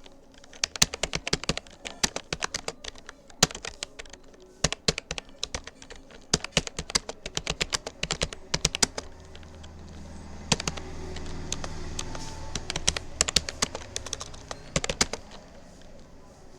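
Rapoo computer keyboard being typed on in quick runs of keystrokes with short pauses, stopping about a second before the end. A low hum sits under the clicks from about ten seconds in.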